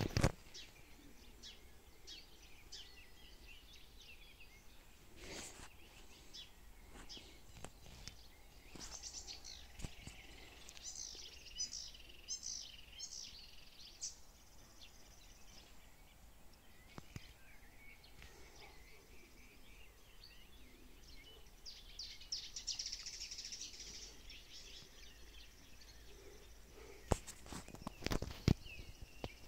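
Songbirds singing in short chirping and trilling phrases over a faint steady background hiss, with a few sharp knocks, the loudest a cluster near the end.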